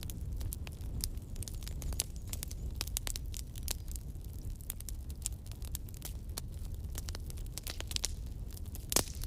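Campfire burning: many sharp crackles and pops over a low steady rumble, with one louder pop near the end.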